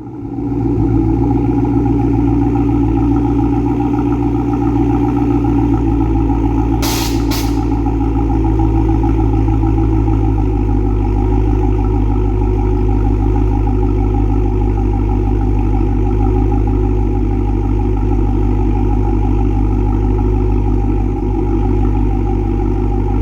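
Dodge Charger Hellcat's supercharged 6.2-litre HEMI V8 running through a Borla ATAK stainless cat-back exhaust: a deep exhaust note that holds steady in pitch, with no revving. Two short clicks come about seven seconds in.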